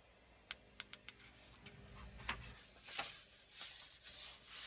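Paper pages of a coloring book being handled and turned: a few light ticks, then soft paper swishes over the second half.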